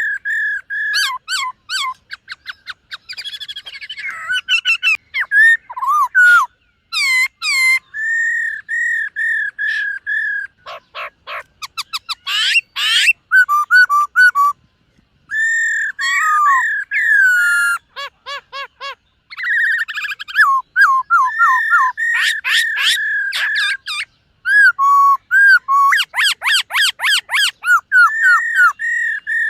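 Black-throated laughingthrush singing a long, varied song of loud whistled phrases, fast repeated notes and rapid trills, broken by short pauses about halfway through and again near two-thirds of the way.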